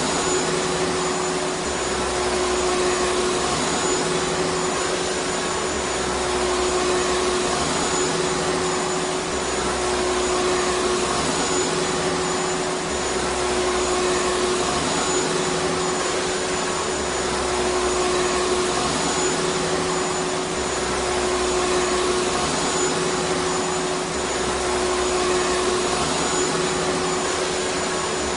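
Vacuum cleaner motor running steadily: a continuous rushing of air with a steady whine. There is a faint low pulse that swells and eases about every three and a half seconds.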